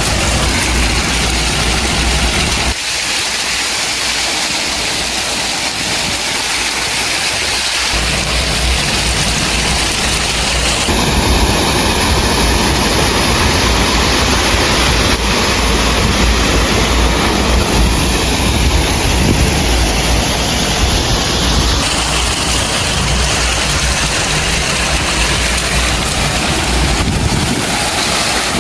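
Heavy diesel machinery engines running steadily under a loud, even rushing noise. The low engine rumble drops away for several seconds near the start, then returns.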